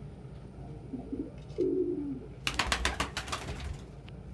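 Domestic pigeon cooing: a short coo that falls in pitch, about a second in. About two and a half seconds in, a quick flurry of a dozen or so sharp claps follows, lasting just over a second.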